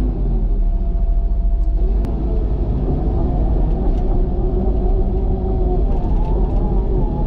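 Cat excavator's diesel engine running under load, a steady low rumble with a pitched whine that rises a little about two to three seconds in.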